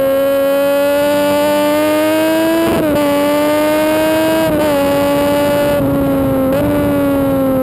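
Sport motorcycle engine running hard at high revs, heard from the bike's tail over steady wind hiss. Its pitch climbs slowly, with short dips about three and four and a half seconds in.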